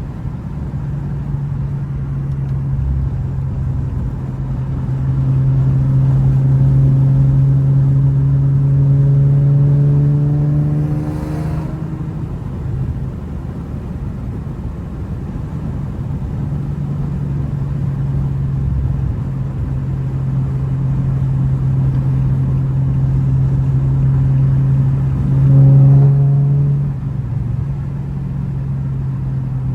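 A car's engine pulling under way, its note slowly rising as the car gathers speed. About eleven seconds in the pitch drops at a gear change. It climbs again, briefly louder, and drops once more near the end.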